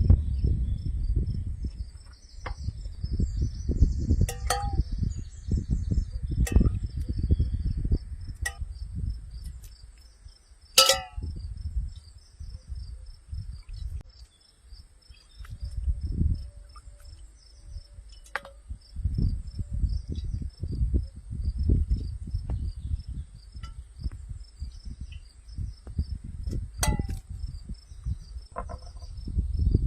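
Crickets chirping steadily in a fast pulsing trill, over loud irregular low rumbling and a few sharp clinks, the loudest about eleven seconds in with a brief ring.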